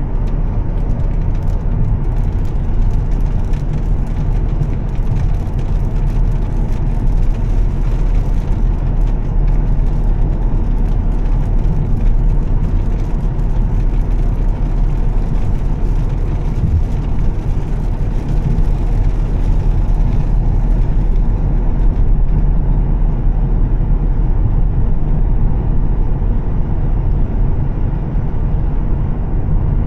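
Volvo S60 T6's turbocharged straight-six with a Heico aftermarket exhaust, running steadily while the car is driven on a wet road. A low drone runs under a hiss, and the hiss drops away about two-thirds of the way through.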